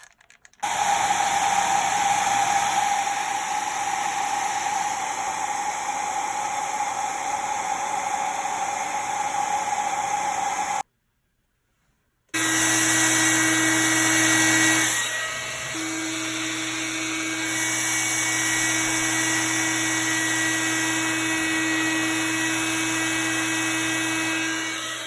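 Panasonic Ionity EH-NE5A hair dryer running, its motor and fan blowing steadily in two stretches of about ten and twelve seconds, with a sudden cut to silence between them. In the second stretch the motor hum is lower in pitch and briefly drops in level a few seconds in.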